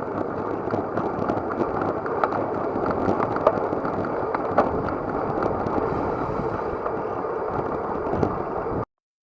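Wind and road noise on a bike-mounted action camera while riding, with many small rattling clicks and knocks from the bicycle. It cuts off suddenly just before the end.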